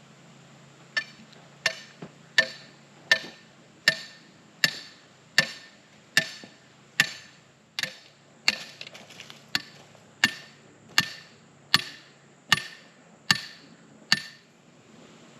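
Hammer blows in a steady rhythm, about eighteen strikes roughly one every three-quarters of a second, each with a short ring, stopping about a second before the end: driving nails or stakes while building batter boards.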